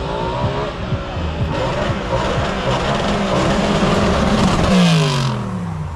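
Car engine and exhaust accelerating hard, growing louder to a peak about five seconds in, then the engine note falls in pitch near the end as the car passes.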